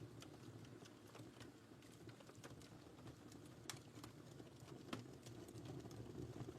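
Wood fire crackling quietly: scattered sharp pops and snaps over a low steady rumble, with two louder snaps a little past the middle.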